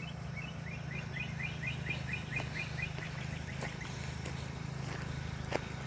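A small bird singing a rapid run of repeated two-note chirps, about seven a second, fading out after about three and a half seconds. A steady low hum runs underneath, and there is a short click near the end.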